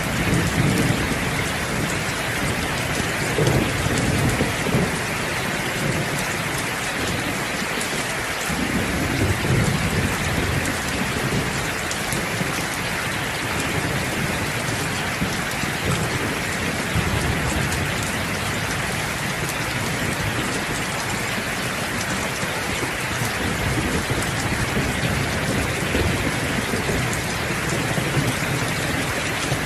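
Steady heavy rain, with low thunder rumbling several times, most strongly in the first ten seconds.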